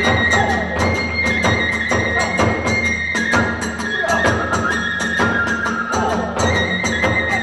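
Kagura festival music (hayashi): a bamboo transverse flute plays held high notes over quick, steady strokes of drums and small hand cymbals.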